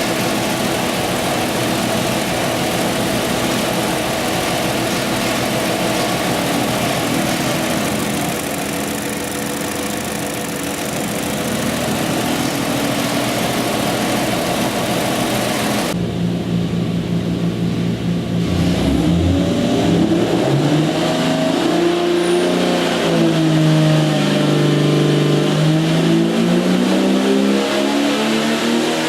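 Golen 4.6-litre Jeep stroker inline-six engine running on a dyno, steady at first. About halfway the sound changes abruptly, and then the revs rise and fall several times.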